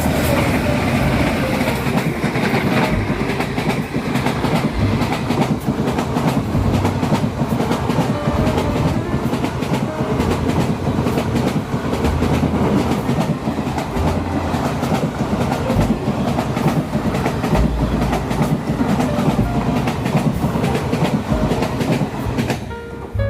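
Train running on rails, with a steady, continuous clatter of wheels over the rail joints.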